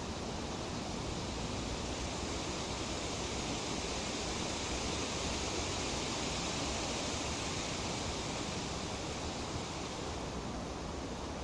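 Tree leaves rustling in a breeze, a steady hiss that swells a little through the middle as the wind picks up, then eases near the end.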